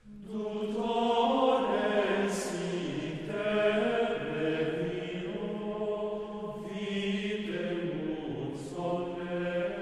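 Liturgical chant: slow, sustained sung notes that hold and step from one pitch to the next, beginning abruptly after a moment of silence.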